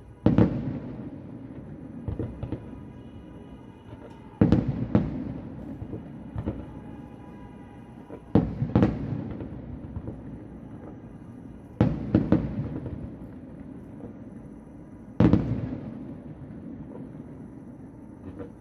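Aerial fireworks shells bursting, heard from about a kilometre away: sharp bangs, mostly in pairs, coming every three to four seconds, each trailing a rolling echo.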